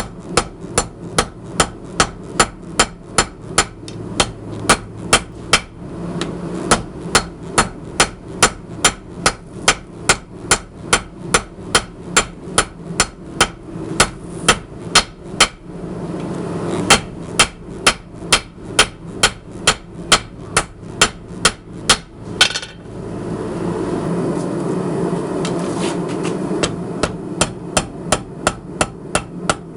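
Hammer blows forging a hot 52100-steel ball bearing on an anvil: sharp, evenly spaced strikes at about two a second. The hammering stops twice, about halfway and again past three-quarters through, and a steady rushing noise fills those gaps before the strikes resume.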